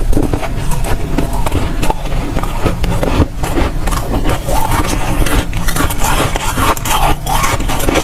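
Close-up crunching and chewing of dry, powdery freezer frost ice, a dense run of crisp crackles and crunches without pause.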